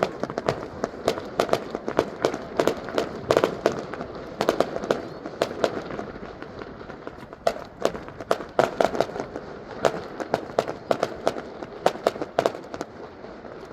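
Aerial fireworks display bursting: a rapid run of sharp bangs and crackling pops, several a second, with a short lull about six seconds in.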